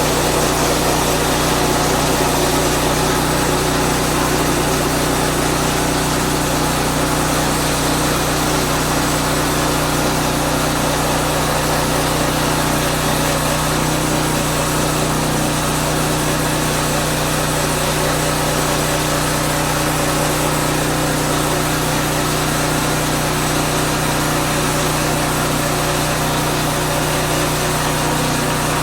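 Engine of a portable band sawmill running steadily at an even pitch while the band blade saws through a pine log.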